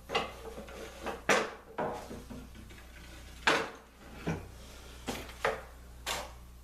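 Sharp wooden knocks and clacks at irregular intervals, about nine in all, from a thin plywood lamination strip being handled and pressed into place around a curved table skirt.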